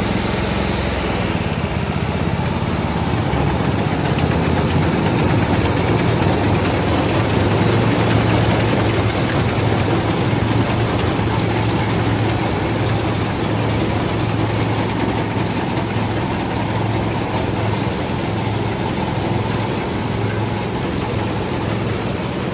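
Old Massey Ferguson 630S combine harvester running steadily while harvesting wheat: a continuous low engine note under a dense, even mechanical din.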